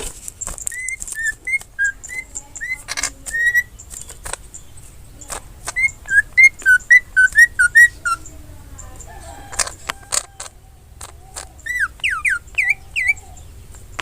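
Cucak ijo (green leafbird) singing: two quick runs of clear whistled notes, about four or five a second, then a few sharper falling notes near the end, with scattered clicks between them.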